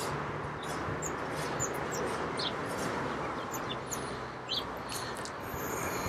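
Small garden birds chirping: brief high chirps scattered through, over a steady background hiss.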